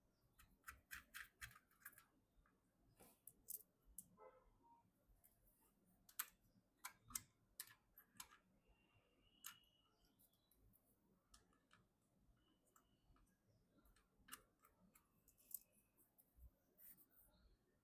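Scattered sharp clicks and ticks of computer hardware being handled during a PC assembly, some coming in quick clusters, with a few faint brief squeaks.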